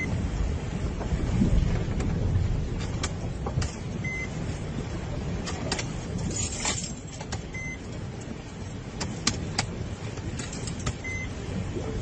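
A vehicle running: a steady low rumble with scattered clicks and knocks, and a short beep that repeats about every three and a half seconds.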